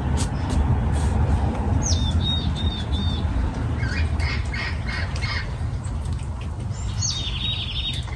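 Songbirds singing outdoors: one bird repeats a short phrase twice, a high falling note followed by a run of quick notes, and another bird chirps in between. A steady low rumble lies under it all.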